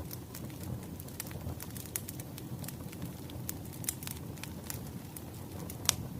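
Wood fire crackling: irregular sharp pops and snaps over a low steady rumble of burning logs, with one louder pop near the end.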